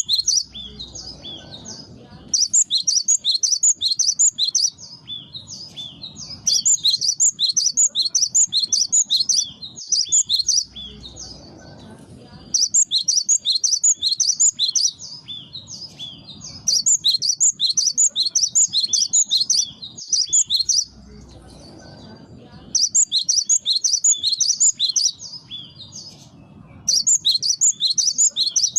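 Cinereous tit (gelatik batu) singing: loud bursts of rapid, high, repeated chirps, each burst lasting two to three seconds, with short pauses between them.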